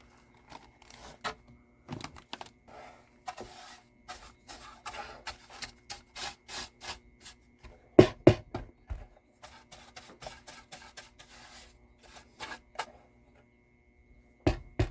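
Small wooden parts being handled on a workbench: irregular light taps, clicks and scrapes, with one louder knock about eight seconds in.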